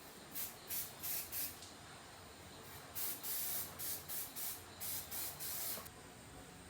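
Paint being sprayed in short hissing bursts: four quick squirts in the first second and a half, then a longer run of bursts from about three seconds in.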